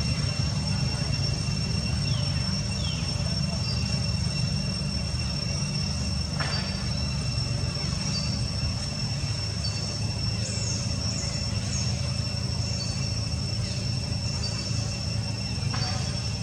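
Outdoor ambience: a steady low rumble with a high, steady insect-like buzz over it, a few short falling chirps, and a sharp click about six seconds in and another near the end.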